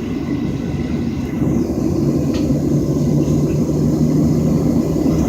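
Cabin noise inside a Southwest Boeing 737 taxiing: a steady rumble of the jet engines and air system with a low hum, growing a little louder about a second and a half in.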